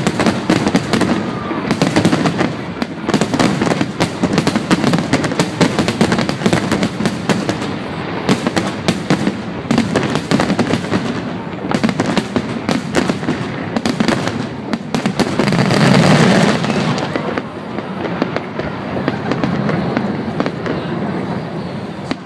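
Aerial fireworks display: dense, rapid crackling and popping from many shells bursting at once, over deeper booms. There is a louder swell of bursts about sixteen seconds in.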